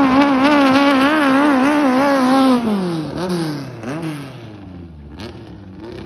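Racing longtail boat's Toyota car engine running hard at high revs, the pitch wavering. About two and a half seconds in the throttle comes off and the revs fall away, with a couple of short blips, settling to a much quieter low rev.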